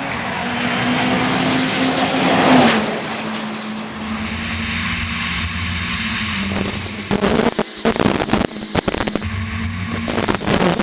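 Citroen DS3 WRC rally car's turbocharged four-cylinder engine at full speed from inside the car, revving up to its loudest about two and a half seconds in, then dropping back. From about seven seconds in, a rapid run of sharp cracks and pops over the engine.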